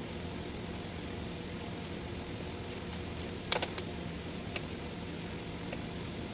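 A few light metallic clicks and clinks of a wrench working on the outboard's rocker arm adjuster, the loudest pair about three and a half seconds in, over a steady low hum.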